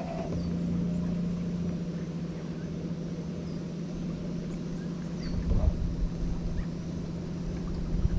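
Small boat's motor running steadily at low speed, a constant low hum, with a few low bumps about five and a half seconds in.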